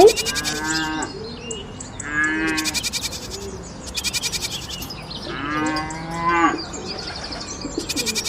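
Livestock calling: three long, drawn-out calls about a second each, spaced a couple of seconds apart, over a faint fast high-pitched ticking.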